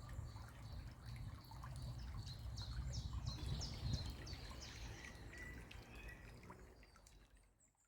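Outdoor ambience beside a bubbling brook: water trickling with birds chirping in a quick run of short calls about two to five seconds in, all fading out near the end.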